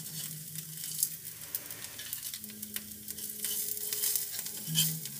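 Aloo tikkis sizzling on a hot iron tawa, with a metal spatula clicking and scraping against the griddle as the browned tikkis are lifted off.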